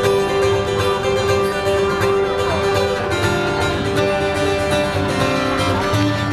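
Live band music led by guitar, playing steadily with sustained notes over a steady low end.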